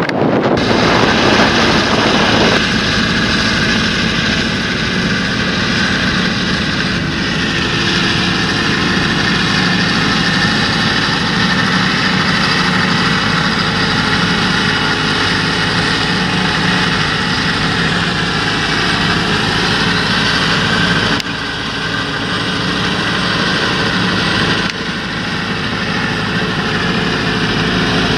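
Large John Deere tractor's diesel engine running steadily under load, with a steady high whine over the engine note. The level dips slightly twice near the end.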